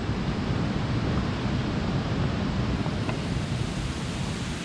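Steady rushing of a mountain stream: constant water noise with no distinct splashes or clicks.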